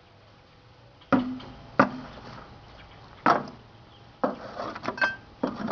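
Hard objects knocking and clattering on a tabletop, a few separate sharp knocks and then a quicker run of them near the end, as tools and a microwave are handled and set down.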